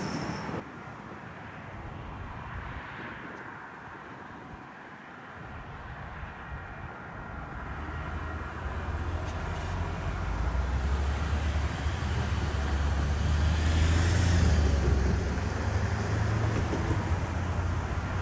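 Vehicle noise: a low rumble builds over several seconds and stays heavy, with a rushing swell as something passes about two-thirds of the way in.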